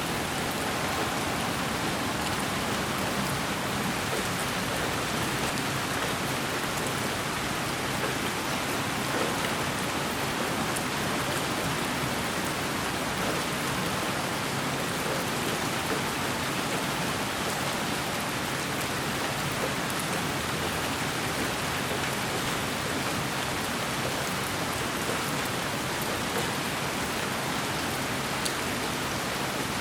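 Steady, even white noise with a rain-like hiss and a few faint scattered ticks, unchanging throughout.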